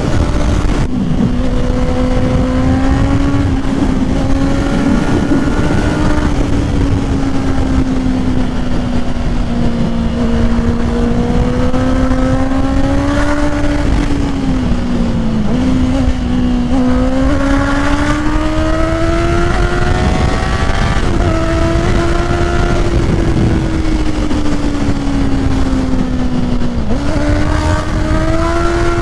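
Honda CBR650R inline-four with an aftermarket full exhaust running under way. The engine note climbs and sags with throttle, with sudden drops in pitch near the middle and near the end, over steady wind noise.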